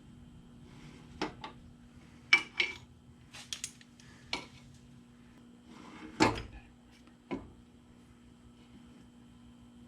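Metal tools and parts being handled on a workbench: scattered clanks and knocks, the loudest about two and a half and six seconds in.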